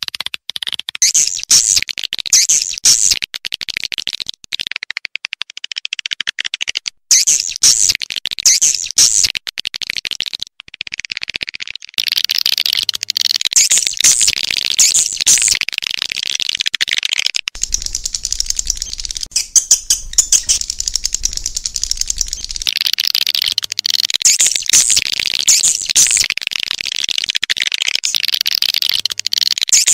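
Dense, rapid twittering and chirping of a flock of swiftlets, a recorded swiftlet call of the kind played to lure swiftlets into nesting houses. A few abrupt breaks in the first twelve seconds, after which the chirping grows denser and runs unbroken.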